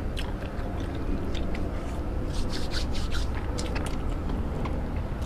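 Close-up mouth sounds of someone chewing steamed chicken: a run of short wet clicks and smacks, busiest in the middle, over a steady low rumble.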